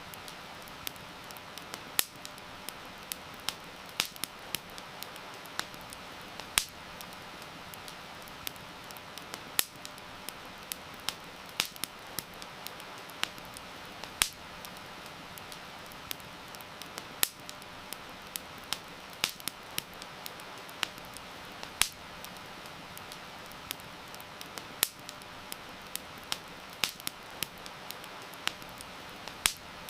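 Wood campfire crackling, with irregular sharp pops and snaps at a few per second, over a steady hiss of heavy rain.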